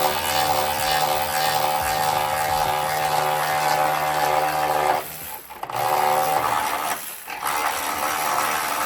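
A handheld power tool's motor running steadily, driving a bolt out, with two brief stops about five and seven seconds in.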